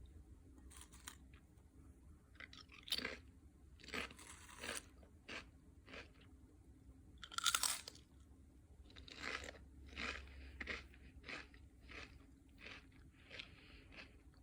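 Crunchy food being bitten and chewed: a dozen or so irregular, crisp crunches, the loudest about seven and a half seconds in.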